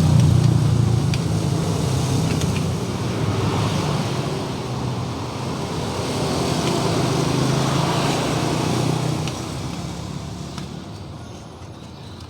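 A motor vehicle engine running steadily, fading away over the last few seconds.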